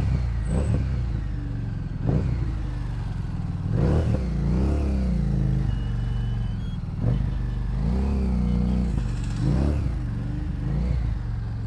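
Harley-Davidson Street 750's 749 cc V-twin with a modified exhaust, ridden in traffic. It is blipped and revved about five times in short surges that rise and fall, over a steady lower running note.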